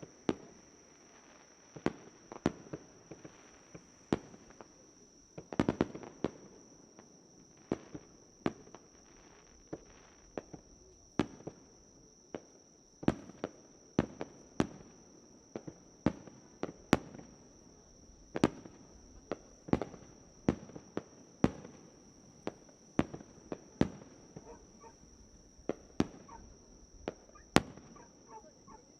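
Fireworks bursting: a long irregular series of sharp bangs, some close together and some with a short echo. A steady high insect chirring runs underneath.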